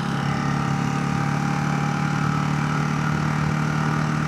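Ducati motorcycle engine running at steady revs under the rider, with wind and road noise.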